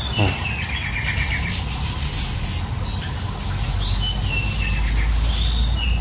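Small cage birds chirping and twittering in short calls and quick trills, over a steady, high-pitched, pulsing trill and a low hum.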